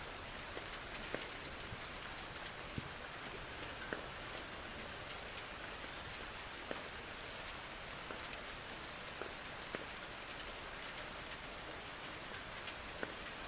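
Steady rain falling, a constant hiss with individual drops ticking sharply at irregular moments. No thunder.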